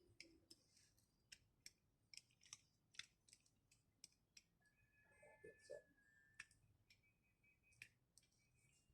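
Faint, irregular clicks and light taps, about two or three a second, from small parts and tools being handled, with a brief thin high tone about halfway through.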